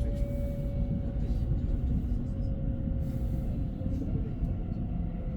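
Train running with a steady low rumble and a faint, steady higher whine over it.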